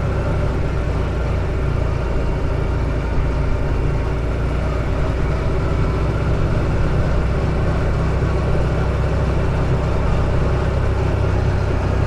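Buggy engine running steadily while driving, with a constant low hum and road noise.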